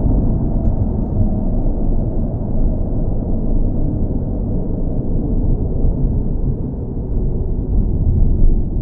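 Car engine running at a steady, unchanging drone: a deep rumble with little above the low and middle range, kept even as a sleep-aid noise.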